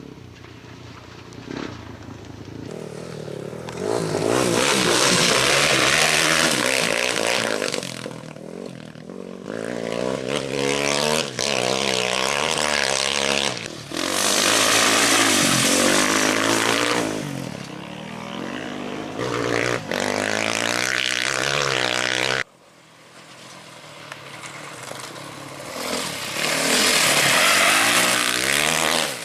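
Off-road race motorcycles and quads going past one at a time through a bend, engines revving up and down as each passes, about five passes in all. One pass cuts off abruptly about two-thirds of the way in.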